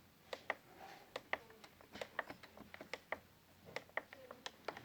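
Rapid, irregular clicking of plastic buttons on a synthesizer keyboard's front panel, pressed one after another to step through edit parameter pages. There are about twenty sharp clicks, some in quick pairs.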